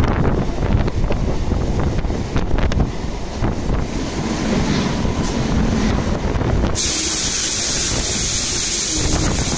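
Electric suburban local train running, with wind rushing over the microphone, as other trains pass close alongside on the next track. About two-thirds of the way through, a loud high hiss sets in suddenly and holds.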